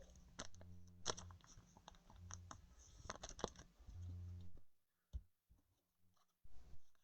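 Faint clicking and scratching of trading cards being handled and flipped through, with a low hum that comes and goes.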